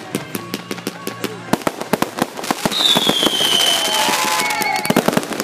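Fireworks crackling with many rapid sharp pops. About two and a half seconds in, a whistling firework joins with a loud high whistle sliding slowly down in pitch, along with fainter falling whistles.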